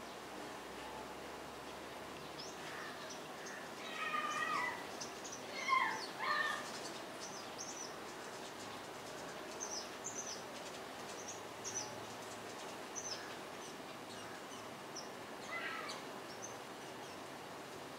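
Birds calling outdoors: a run of short, thin, high chirps through the first two-thirds, and a few louder, lower calls that bend downward about four and six seconds in and again near the end.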